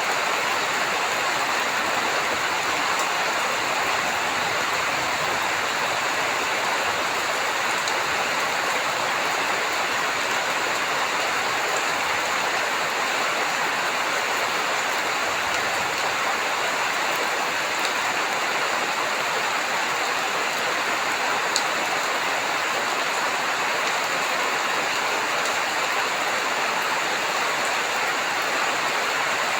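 Heavy rain falling steadily, an even hiss with one sharp tick about two-thirds of the way through.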